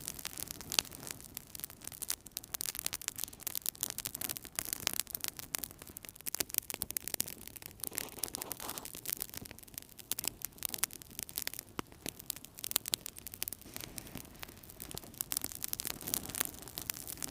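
Wood fire crackling and popping in a fireplace: a dense, irregular run of sharp snaps and ticks over a low hiss of burning.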